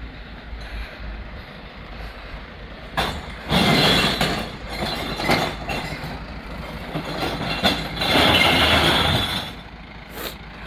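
Two loud stretches of crashing and clattering, each a second or two long, as glass bottles and jars are tipped into a glass-recycling truck, over the truck's steady low running.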